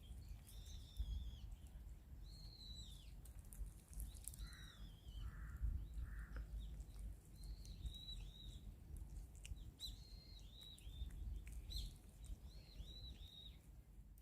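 Small birds chirping: a run of short, arched high calls repeated through the whole stretch, with three lower, noisier calls about four and a half to six seconds in, over a faint low rumble.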